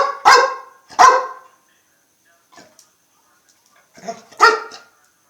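Pet dog barking: three quick barks, then another pair of barks about four seconds later.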